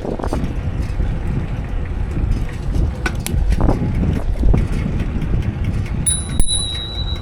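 Wind buffeting the microphone of a camera on a moving bicycle, a dense low rumble with scattered clicks and rattles. About six seconds in a steady high-pitched tone starts and holds to the end.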